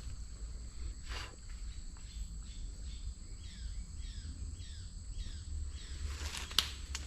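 A jungle bird calls a run of about six short notes, each sliding downward, at roughly two a second, over a steady high-pitched insect drone and low rumble. A single sharp click sounds near the end.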